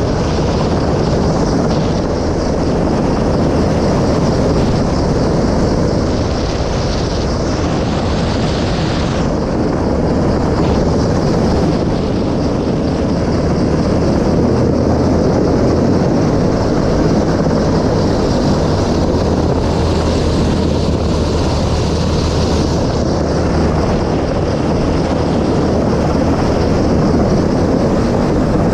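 Helicopter running steadily: a continuous loud rushing noise over a low, even hum from the rotor and engine.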